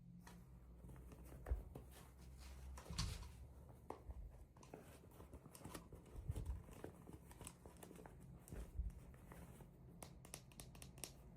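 Faint unboxing handling sounds: toy packaging being torn and crinkled, with scattered small clicks and taps and a quick run of clicks near the end, over a low steady hum.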